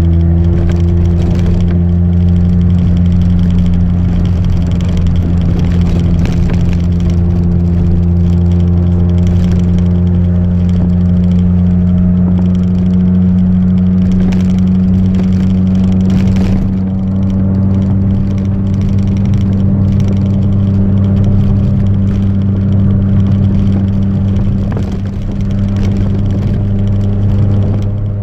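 Chevrolet Celta 1.0 four-cylinder engine, naturally aspirated, sounding through a 4-into-1 header and a two-inch exhaust with no mufflers, running under way at nearly constant revs with a loud, steady exhaust note.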